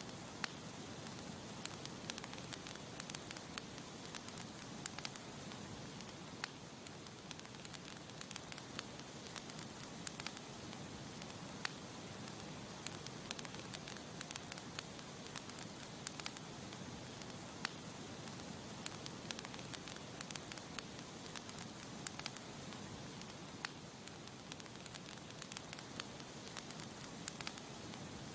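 Campfire burning, with frequent irregular crackles and pops of the burning wood over a steady soft hiss.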